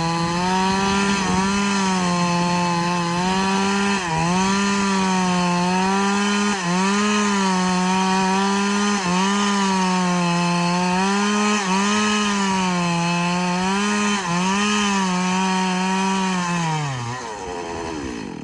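Two-stroke chainsaw running at full throttle while cutting through a large log, its pitch sagging briefly every couple of seconds under load. Near the end the engine winds down and stops.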